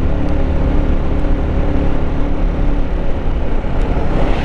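Yamaha MT-15's single-cylinder engine running steadily while riding, with heavy wind rumble on the helmet-mounted microphone; the engine note fades a little after about three seconds.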